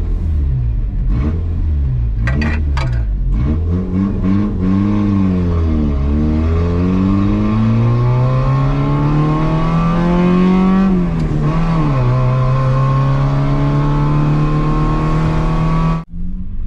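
Yugo's small four-cylinder engine pulling through the gears while driving, its pitch climbing and falling back at each shift, then holding steady at a cruise. The sound cuts off sharply near the end.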